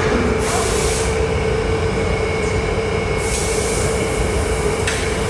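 Steady roar of a glass-blowing furnace and its blowers, with a constant hum running through it and stretches of louder hissing.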